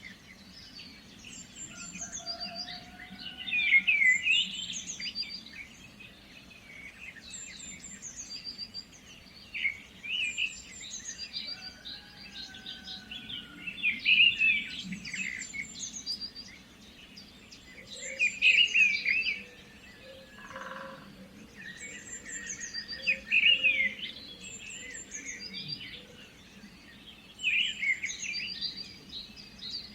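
Birds singing: short, fast, chirpy song phrases come every four to five seconds over a faint low hum.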